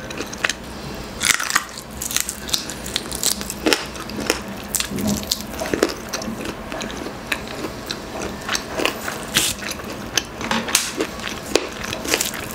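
A person chewing and biting grilled chicken inasal with rice, with irregular wet smacks and clicks of the mouth and the occasional crunch of charred skin.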